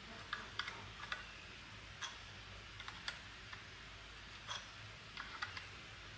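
Light, irregular clicks and small taps, a dozen or so spread unevenly, over a faint steady hiss, typical of small parts and hand tools being handled during a water pump repair.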